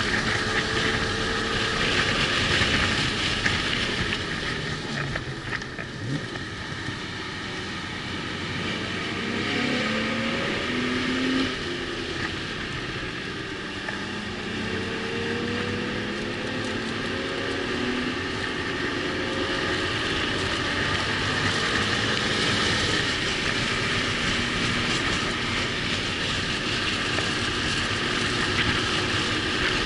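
Car engine running hard on track, its pitch climbing with acceleration and dropping back at each shift or lift, over steady wind and tyre noise. There is a quieter stretch about six seconds in, as if easing off for a corner.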